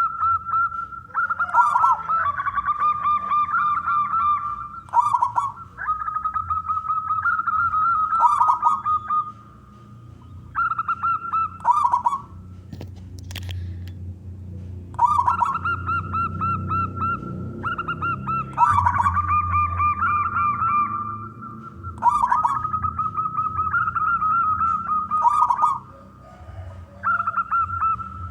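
Male zebra dove (perkutut) singing: its rippling cooing phrase repeated every few seconds, with one longer pause about halfway.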